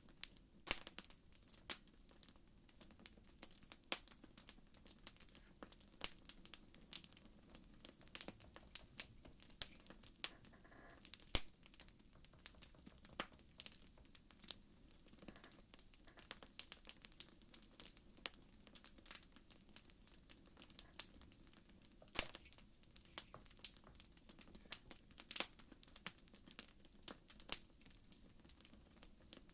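Wood fire crackling: irregular sharp pops and snaps, several a second, over a faint low rumble.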